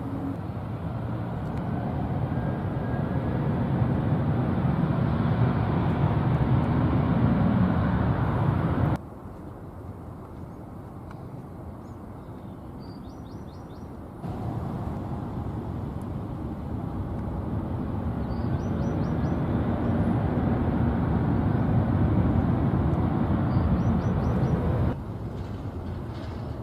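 Jet airliner engines rumbling as planes pass close by, the sound swelling steadily over several seconds. It breaks off abruptly twice where one clip cuts to the next.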